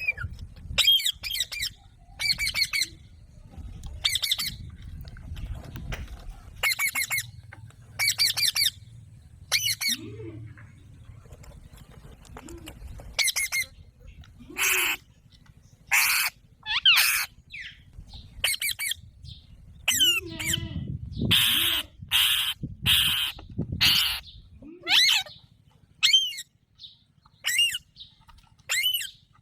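Alexandrine parakeet giving short, harsh squawking calls every second or two, coming thicker and louder about two-thirds of the way through.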